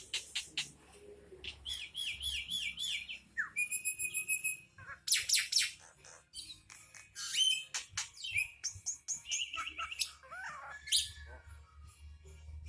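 A jalak (starling) in full song, 'gacor', pouring out a varied stream of sharp clicks, rapid chirps, whistled slides and buzzy trills.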